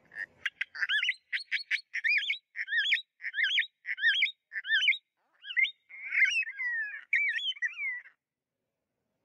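A bird chirping in a rapid series of short whistled notes, stopping near the end.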